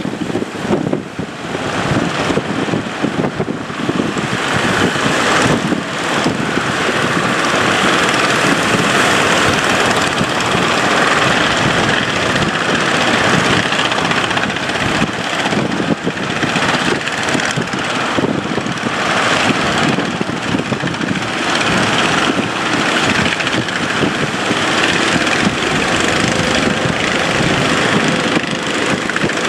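A boat's engine running steadily at sea, under a constant loud rushing noise that swells slightly after the first few seconds.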